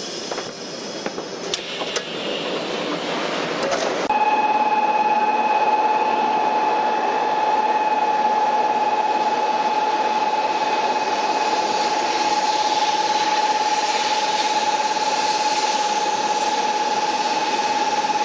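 Train noise: a few clicks, then a steady rushing with a constant whine that starts abruptly about four seconds in.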